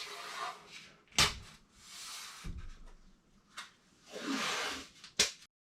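Handling noises from work on a cabinet: a few short scraping swishes and two sharp knocks, one about a second in and one near the end. The sound then cuts off abruptly.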